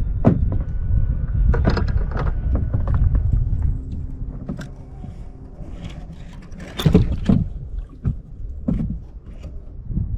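Scattered knocks and clunks on a kayak over a low wind rumble on the microphone. The rumble eases off about four seconds in, and the loudest knocks come a little under seven seconds in.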